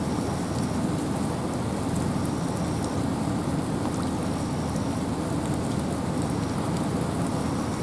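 Steady rain and wind in a forest: an even rushing hiss with a deep rumble underneath, unchanging throughout.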